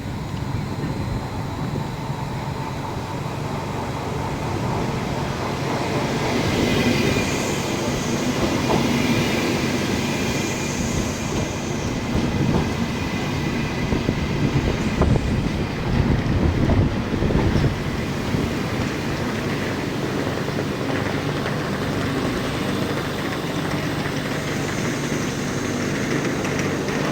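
A train moving along the tracks, a steady rumble with low humming tones. Wheels click over rail joints, mostly in the middle, and faint high wheel squeals come and go.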